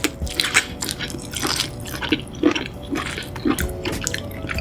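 Close-up wet eating sounds: saucy seafood being chewed, with irregular short smacks and squelches.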